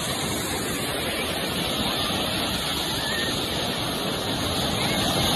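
Ocean surf washing in as a steady rushing noise, with no distinct breaks or impacts.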